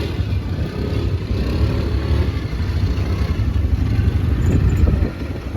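Quad bike engine running while riding, with a steady low rumble that eases off near the end.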